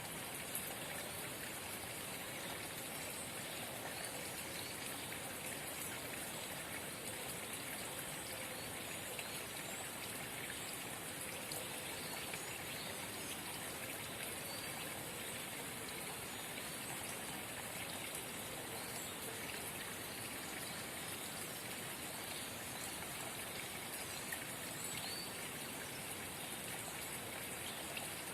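A small forest spring babbling and trickling steadily.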